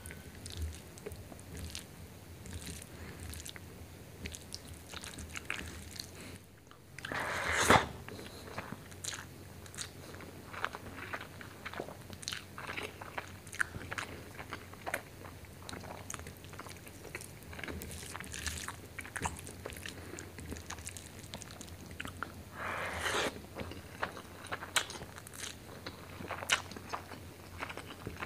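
Close-miked chewing and wet mouth sounds of someone eating chicken liver and gizzard curry with rice by hand, with many small clicks and smacks and the squish of fingers working rice into the curry. Two longer, louder wet sounds come about a quarter of the way in and again near the end.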